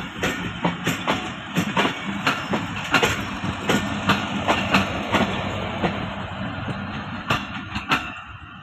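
Passenger coaches rolling past close by, their wheels clicking over the rail joints in a quick clickety-clack over a steady rumble. The clatter dies down near the end.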